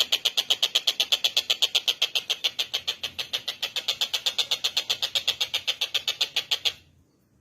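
Tengkek buto kingfisher calling in a fast, even run of sharp, high 'kek' notes, about nine a second. The call stops abruptly near the end.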